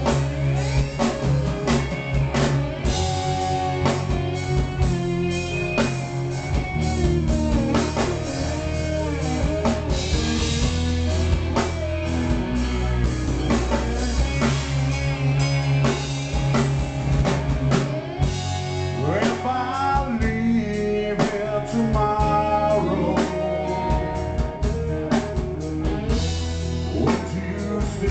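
A live rock band playing a slow ballad intro: electric guitar with sliding, gliding notes over a steady bass and drum kit.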